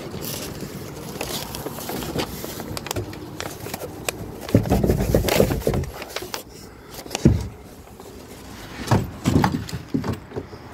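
Irregular thumps and knocks from someone moving about and handling a small sailboat's hull: a cluster of thumps about halfway through, a single sharp knock a little later, and another cluster near the end.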